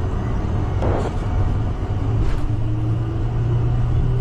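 Aircraft engines spooling up to takeoff thrust with the rumble of the takeoff roll, heard in the cockpit: a steady low hum that steps up in pitch about two and a half seconds in, with two brief knocks.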